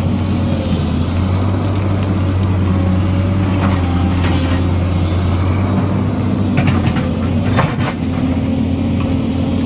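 Heavy diesel engine of an excavator running steadily at a constant pitch, with a few short clanks and knocks from the machine working, the loudest between about six and eight seconds in.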